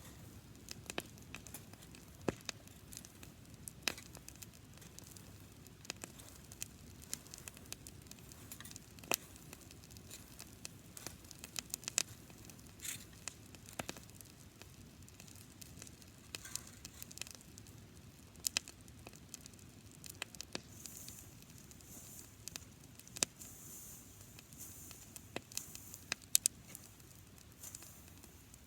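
Campfire of dried grass burning, crackling with irregular sharp pops over a low steady rush of flame, and a faint high hiss in the later part.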